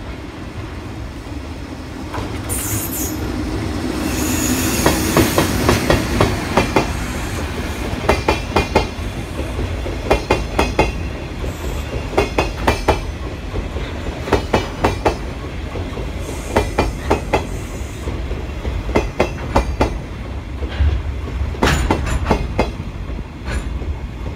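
A freight train of empty Chiki flat wagons for carrying rail, hauled by an EF65 electric locomotive, passing close by. The locomotive's hum and a high hiss peak about four to six seconds in, then the wagon wheels click over the rail joints in repeated quick groups as the wagons roll past.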